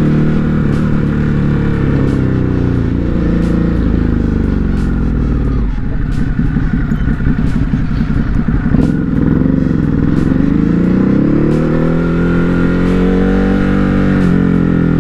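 Ducati Hypermotard 950 RVE's 937 cc L-twin engine, heard from the rider's seat. The revs fall as the bike slows, then it runs at a lumpy, pulsing idle for about three seconds in the middle, then pulls away with rising revs and shifts up once near the end.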